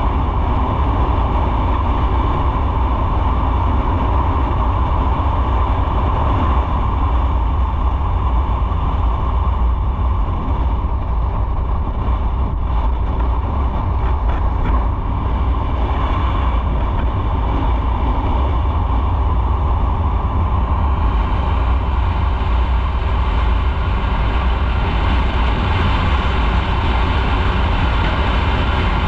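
Motorcycle under way: steady engine and wind-and-road rush with a heavy low rumble, unbroken throughout.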